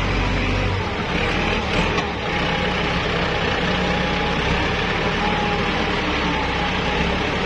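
Kubota L5018SP tractor's diesel engine running steadily, its low note shifting about a second in.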